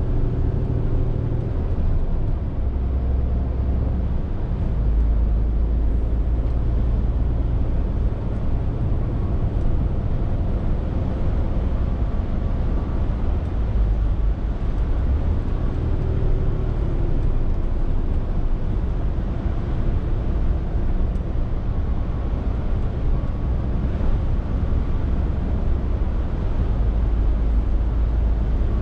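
Scania R450 lorry's diesel engine running under way, a steady low drone with road noise, its note shifting a few times as the load changes.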